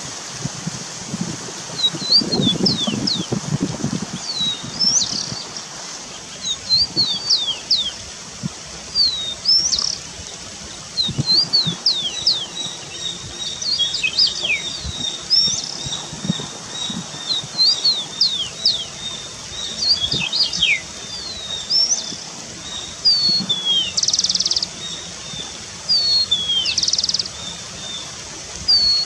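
Cucak keling birds calling with many short, quickly sliding whistled notes, several overlapping at once. A steady high thin tone runs through the middle, and short buzzy bursts come near the end.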